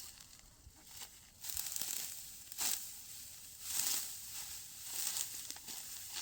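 Dry wheat stalks crunching and rustling in a series of short bursts, roughly one a second, as the ripe straw is handled during the harvest.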